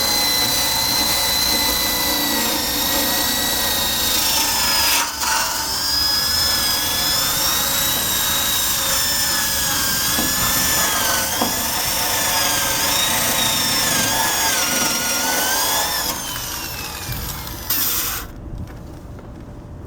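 Electric drill spinning a wire brush against the scooter's steel frame to strip rust. The motor's whine wavers in pitch as the brush is pressed on and eased off. It breaks briefly about five seconds in and winds down near the end, with one short burst just after.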